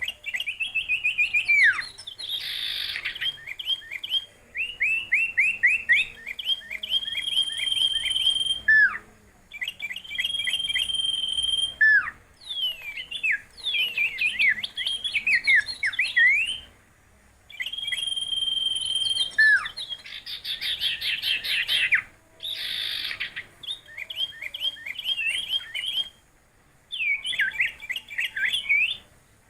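A songbird singing a long, varied song in phrases: held high whistles, quick series of falling notes and buzzy rattles, each phrase separated by a short pause.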